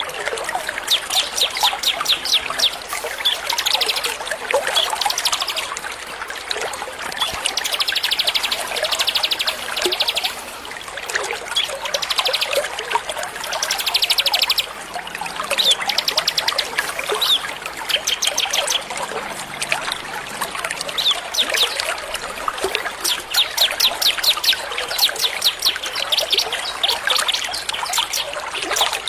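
Small songbirds singing fast, high chirping trills in phrases of a few seconds, over a steady trickle of running water.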